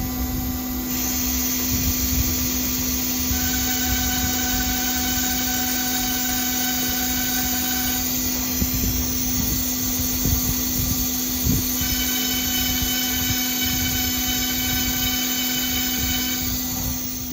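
CNC engraving machine's spindle running at speed while machining screw holes in bakelite: a steady hum with a high whine, the whine's tones changing a few seconds in and again around the middle.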